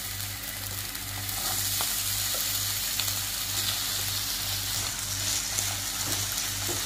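Diced raw potato hitting hot oil in a nonstick frying pan and sizzling, the hiss growing a little louder about a second in as more potato goes in. Near the end a wooden spatula stirs the pieces around the pan.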